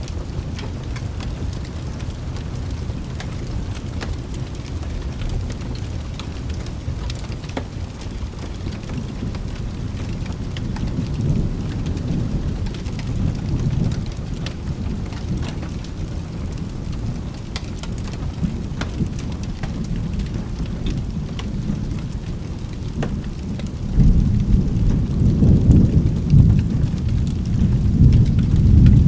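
Steady rain with rolling thunder. The thunder swells about halfway through, and a louder rumble breaks in suddenly near the end and keeps rolling.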